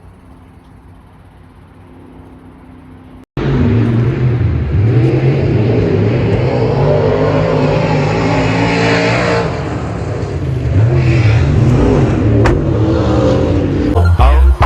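A car engine running and revving, its pitch wavering up and down. It starts abruptly about three seconds in after a quieter stretch.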